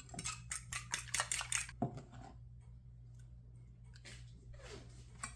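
Cutlery clinking against a bowl while eggs seasoned with salt and pepper are stirred in: a quick run of clicks, about five a second, in the first two seconds, then softer scattered scraping.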